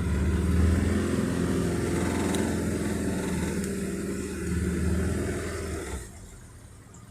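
An engine running steadily with a low, even hum, dropping away abruptly about six seconds in.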